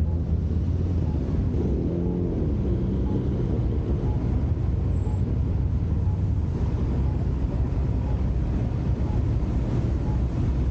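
Steady low rumble of a Ford Mustang's engine and road noise as the car rolls slowly in traffic, with wind on the microphone.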